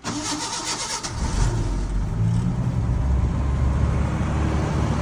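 1986 Ford F150's 300 straight-six (4.9 L) cold-starting: the starter cranks for about a second, then the engine catches and runs steadily.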